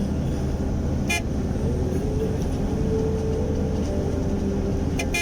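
A motor vehicle running with a steady low rumble and a droning pitch that wavers up and down, with two short sharp clicks, about a second in and near the end.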